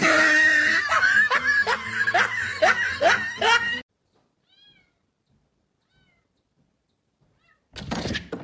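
A cat meowing over and over in short rising calls, about three a second, that stop abruptly after about four seconds. A faint single chirp follows, and then a brief noisy burst near the end.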